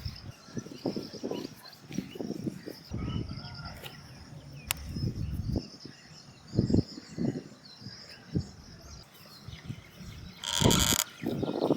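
Irregular low thumps and rustles, with faint bird chirping in the background. A short, louder harsh sound comes about ten and a half seconds in.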